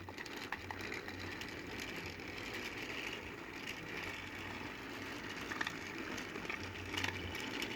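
Small electric motor of a battery-powered TrackMaster toy train whirring steadily, with light clicks of its wheels over the plastic track. The engine is struggling to pull its coaches, which the owner puts down to dirty wheels.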